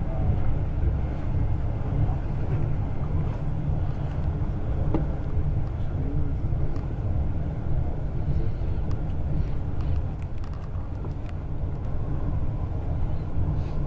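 Passenger train running at speed, heard from inside the carriage: a steady low rumble with a few faint clicks.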